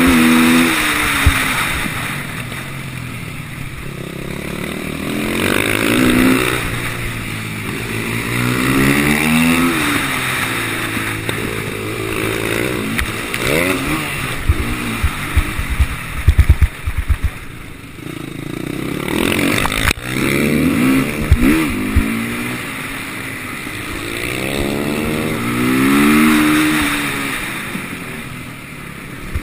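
KTM 450 SMR supermoto's single-cylinder four-stroke engine under race riding: it revs up in repeated rising sweeps through the gears and falls back off the throttle between them. A cluster of sharp knocks comes about halfway through.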